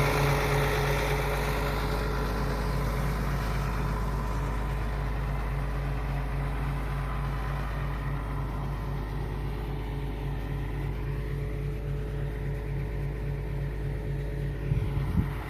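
A heavy farm machine's engine running steadily, slowly growing fainter, with a couple of short knocks near the end.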